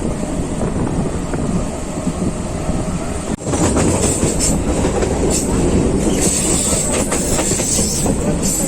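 Local passenger train running, heard from inside the coach: a steady rumble with the wheels clacking over rail joints, louder and with more sharp clicks after a brief dip about three seconds in.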